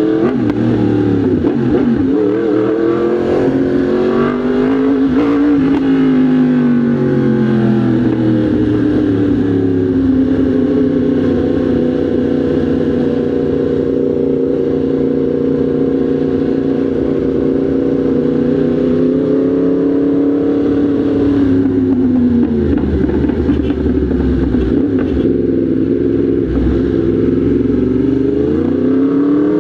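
Motorcycle engine running under the rider's throttle: its pitch climbs in the first few seconds, holds steady through a long cruise, drops about two-thirds of the way through, then climbs again near the end.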